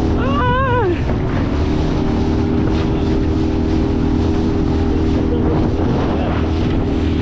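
Honda BF20 four-stroke outboard running steadily at cruising speed, driving an inflatable boat through rough water, with wind buffeting the microphone. A person's voice calls out briefly, rising and falling, in the first second.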